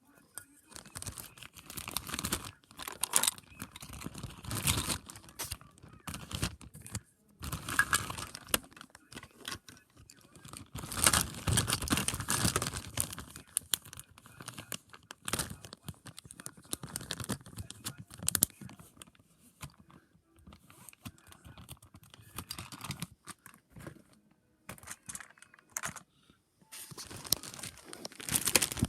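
Rustling and crinkling handling noise in irregular bursts, like packaging or plastic being handled.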